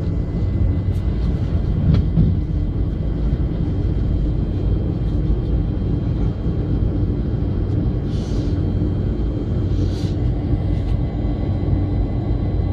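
Steady low rumble of a Boeing 747's engines and airflow heard inside the passenger cabin, with a couple of brief faint hisses about eight and ten seconds in.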